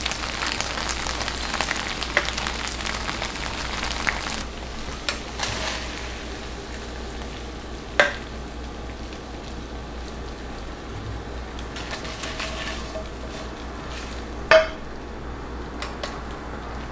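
Cheesy ramen noodles frying and sizzling in a pan with cream and melting mozzarella, crackling louder for the first four seconds and then settling to a softer sizzle. A utensil knocks sharply against the pan twice, about 8 and 14 seconds in.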